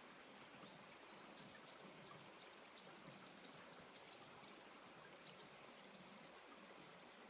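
Faint bird song: a quick run of short, high chirps, about three or four a second, then a pause and a few more chirps. The chirps sit over a steady soft hiss of outdoor ambience.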